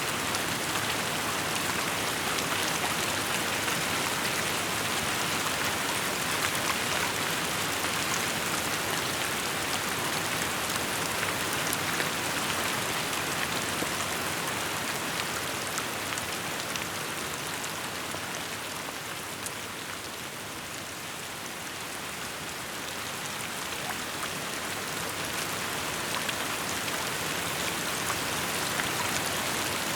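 Steady rainfall: the dense hiss of many drops landing on surfaces, easing slightly just past the middle and then building back up.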